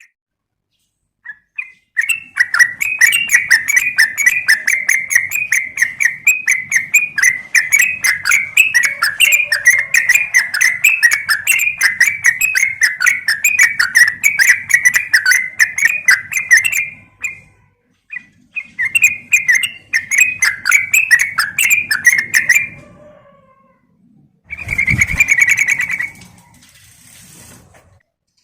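Yellow-vented bulbul (trucukan) calling in a long, rapid run of chattering chirps, a brief break, then a second run, played as a lure: the call of a female calling the male. A shorter burst with a low thump comes near the end.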